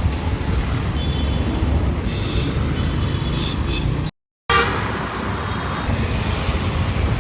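Street traffic: several short vehicle horn toots over a steady low rumble of passing vehicles. The sound cuts out completely for a moment about four seconds in.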